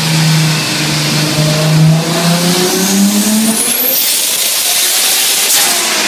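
Turbocharged 2JZ straight-six engine swap run up on a chassis dyno. The engine holds a steady note, then climbs in pitch about two and a half seconds in, with a rising turbo whistle, followed by a loud rushing hiss at the top. The engine note falls again near the end.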